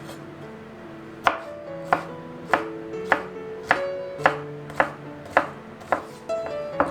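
Knife chopping on a cutting board in a steady rhythm, about ten even chops a little over half a second apart, starting about a second in, over soft background music.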